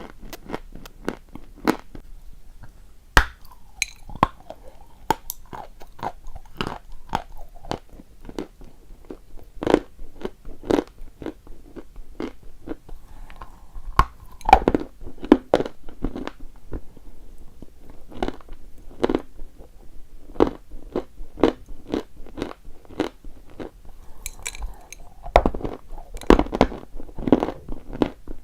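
Chalk being bitten and chewed close to the microphone: a string of sharp, dry crunches, about one or two a second, irregularly spaced.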